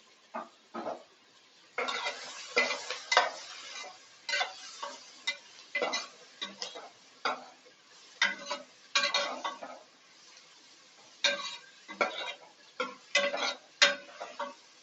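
Spoon stirring and scraping sliced onions in hot oil in a pressure cooker, with irregular clattering knocks against the pot and a light sizzle. The stirring comes in bursts with short pauses, starting properly about two seconds in.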